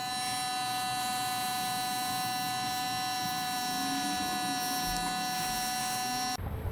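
A small electric motor running steadily with a high whine, then switched off suddenly near the end.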